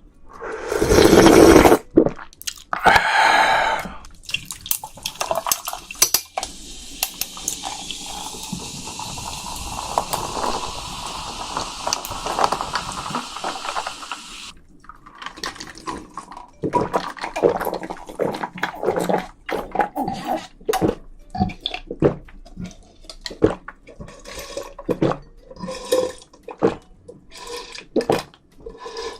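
Water running steadily for about ten seconds, then many short clicks and knocks.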